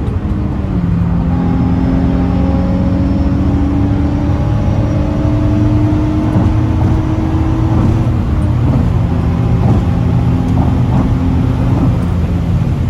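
Infiniti G35's 3.5-litre V6 pulling under load with an aftermarket intake and the stock exhaust. The engine note climbs slowly, drops suddenly about half a second in and again about eight and a half seconds in, then climbs again.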